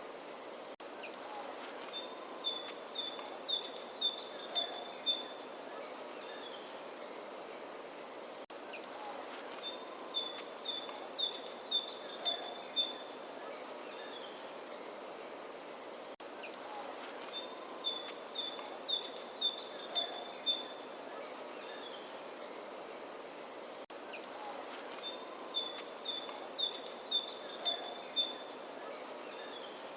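A songbird singing the same phrase four times, about every eight seconds: a few high notes falling in pitch, then a quick run of short chirps. Under it is a steady outdoor background hiss.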